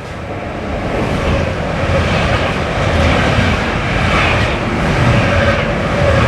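A train approaching and passing, its running noise and rumble growing louder over the first two seconds and then holding steady.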